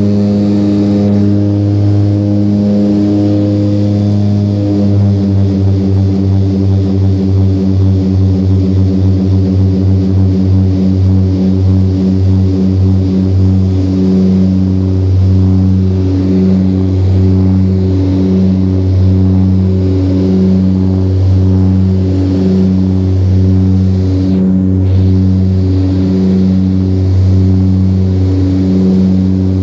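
Twin turboprop engines of a Let L-410 Turbolet running with a steady drone. From about five seconds in, a pulsing beat sets in, fast at first and then slowing to roughly one pulse every second and a half. This is the sign of the two propellers turning at slightly different speeds, out of sync.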